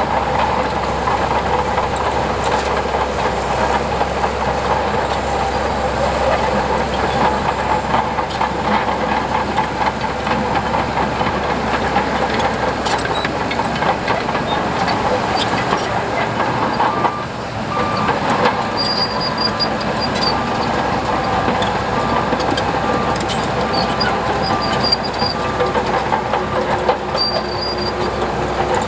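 Heavy diesel earthmoving machinery working steadily, with a bulldozer's engine running and its tracks rattling. From a little past halfway, a short beep repeats at an even pace for several seconds.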